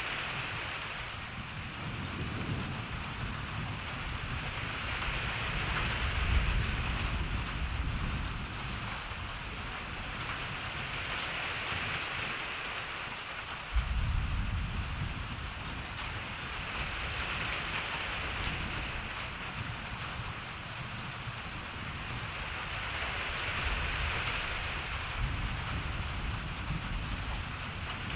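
Steady rain falling, with thunder rumbling through it. A rolling rumble comes about six seconds in. About halfway, a sudden thunderclap rolls off into a long low rumble, and another rumble comes near the end.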